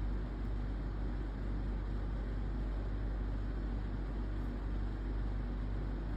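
Steady low hum with a constant hiss underneath, unchanging throughout.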